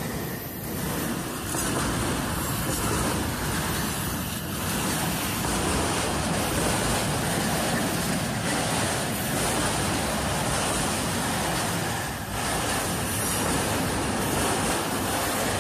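Autorack freight cars rolling past close by: a steady rumble and rattle of steel wheels on the rails.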